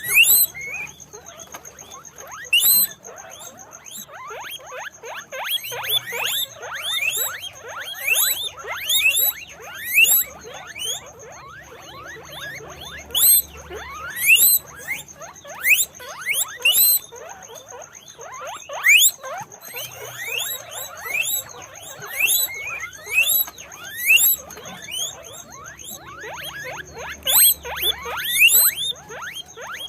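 Guinea pigs squeaking over and over: short, rising squeals, several a second and often overlapping. A steady high-pitched tone sits underneath.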